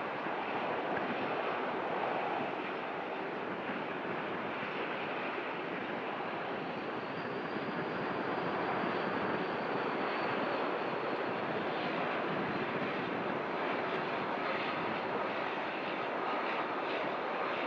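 Airliner jet engines running: a steady rush with a faint high whine that swells slightly about halfway through.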